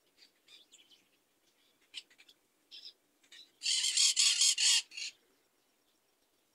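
Birds calling: a few short, high chirps, then about three and a half seconds in a loud, rapid call lasting about a second, close to the microphone.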